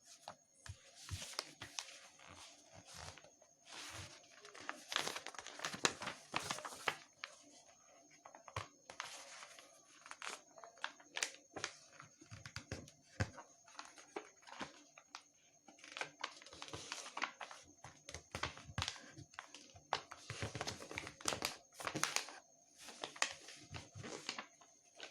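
Sheet of paper being folded and creased by hand: irregular crinkling, rustling and sharp crackles as the fold is made and pressed flat.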